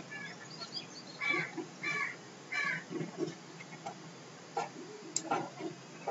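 Birds calling faintly in the background: a few short, harsh calls, three of them close together between one and three seconds in, with fainter, higher chirps just before. A couple of soft clicks come near the end.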